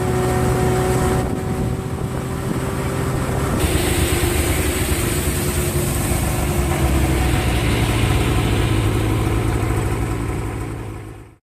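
Heavy snowplow truck's engine running steadily under a loud rushing noise, with a slowly falling engine tone. It cuts off abruptly near the end.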